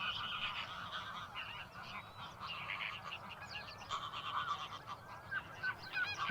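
A flock of greater flamingos calling: a constant, overlapping chatter of short, goose-like honks.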